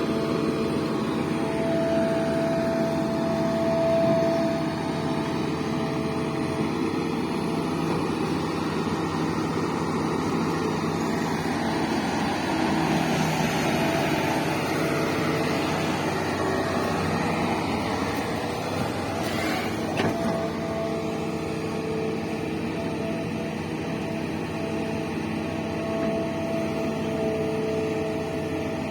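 Diesel engine of a digging machine running steadily, with a held whining tone over it, and one sharp click about twenty seconds in.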